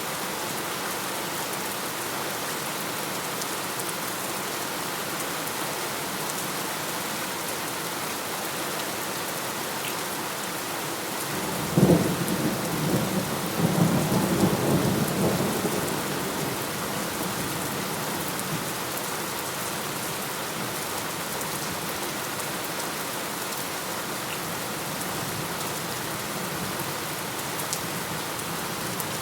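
Steady heavy rain falling, with a thunderclap about twelve seconds in: a sharp crack followed by a rolling rumble that dies away over a few seconds.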